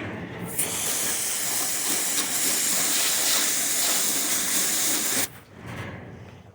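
Garden hose spraying water into the chickens' waterer with a steady hiss for about five seconds, cut off suddenly.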